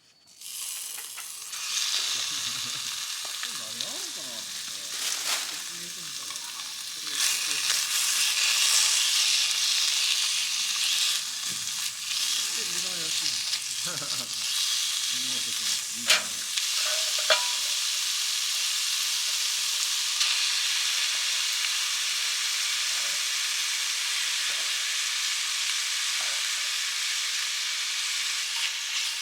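Food frying in a hot pan, a steady sizzle that starts about a second and a half in and grows louder around seven seconds, with a couple of sharp clicks near the middle.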